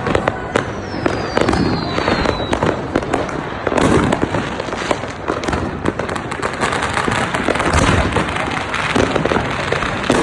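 Many fireworks going off at once in a dense, unbroken stream of bangs and crackles, with a falling whistle about a second in.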